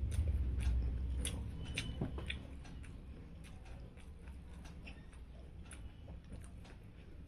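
Close-up eating sounds: chewing a mouthful of rice and fried fish, with many small scattered clicks from the mouth and from fingers mixing rice on a steel plate. A low hum lies under the first two seconds.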